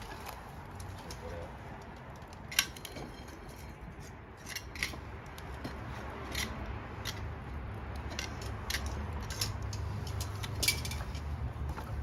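Wood campfire crackling: irregular sharp pops and snaps of burning wood over a low steady rumble.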